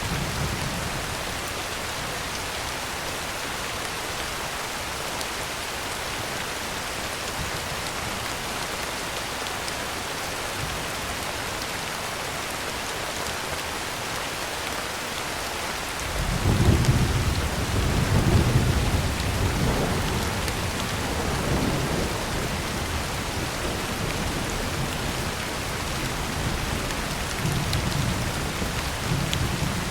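Heavy rain on a tin roof, a steady hiss. A roll of thunder starts about halfway through, is loudest for a few seconds and then slowly rumbles away; the tail of an earlier rumble fades out at the very start.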